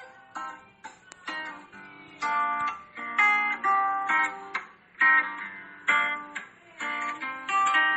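Acoustic guitar (violão) playing an instrumental intro: strummed and plucked chords in a steady rhythmic pattern, about one or two chord attacks a second.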